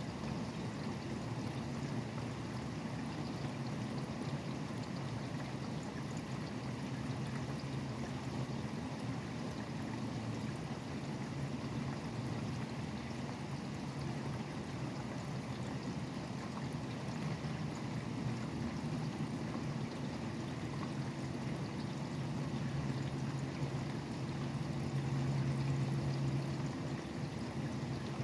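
Steady rain falling, with the low hum of highway traffic underneath. A vehicle's hum swells and fades near the end.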